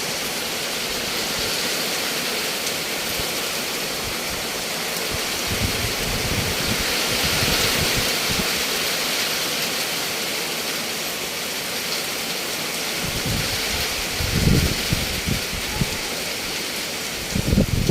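Heavy rain pouring steadily, with gusts of strong wind buffeting the microphone several times, most strongly around fourteen seconds in and near the end.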